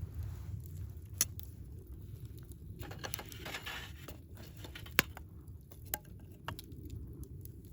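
Wood fire burning in a Picogrill 398 fire pit, crackling with scattered sharp pops, the loudest about five seconds in. A short rushing hiss comes about three seconds in.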